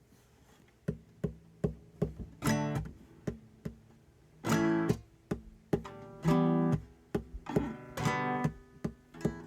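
Acoustic guitar intro: single plucked notes alternate with strummed chords, which come roughly every two seconds and ring out.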